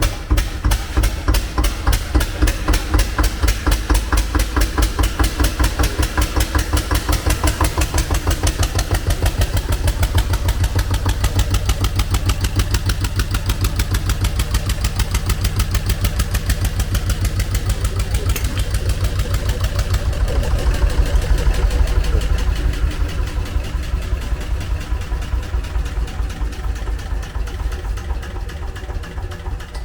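Antique single-cylinder Ruston Hornsby stationary engine running with a steady, rapid beat, getting slightly louder around the middle and easing off near the end.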